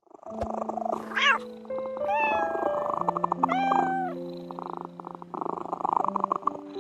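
A cat meowing several times, each call rising and then falling in pitch, over soft background music.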